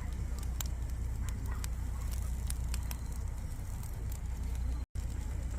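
Wood campfire crackling, with scattered sharp pops over a steady low rumble. The sound cuts out for an instant near the end.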